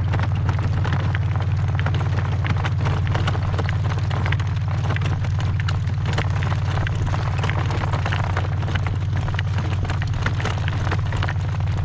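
Strong wind buffeting the microphone as a steady low rumble, with a horse's hoofbeats and small knocks clicking over it.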